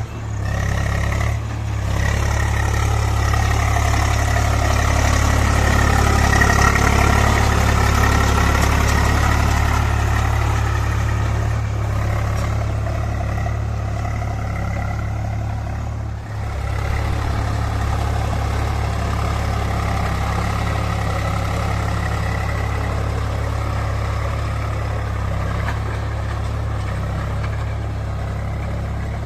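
Swaraj 735 tractor's three-cylinder diesel engine running steadily, with brief dips about a second and a half in and about halfway through.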